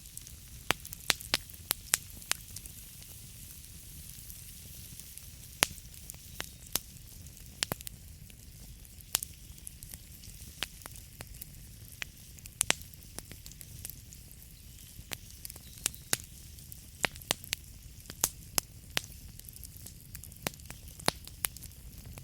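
Wood fire burning in a fireplace, the logs crackling with irregular sharp pops and snaps over a steady low rumble and hiss of the flames.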